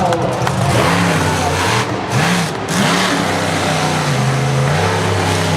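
Monster truck engine revving up and down several times about a second in, then holding a steadier drone.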